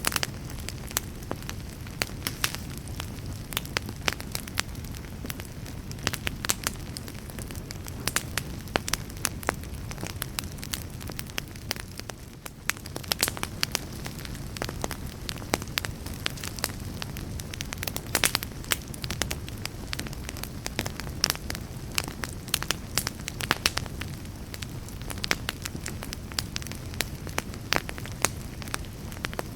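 Wood fire burning in a fireplace: a steady low rumble of flames with frequent sharp crackles and pops at irregular intervals, easing off briefly near the middle.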